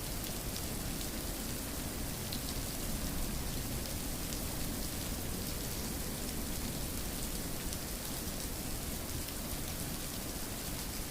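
Steady rain falling on a surface, an even hiss with many fine drop ticks and no let-up.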